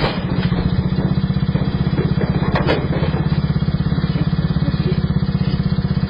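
Small dirt bike's engine idling with a rapid, even beat, with a short knock about two and a half seconds in.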